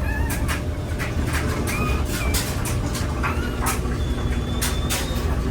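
Newborn English Pointer × German Shorthaired Pointer puppies giving short high squeaks and mews, with one longer thin squeal near the end. Under them runs a steady low rumble, with repeated short clicks and rustles.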